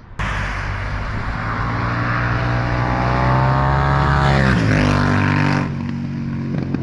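Moto Guzzi Stelvio's transverse V-twin engine, breathing through a Zard slip-on exhaust with the dB killer removed, running loud. The revs climb steadily for a few seconds, drop sharply about four and a half seconds in, then settle to a lower steady run.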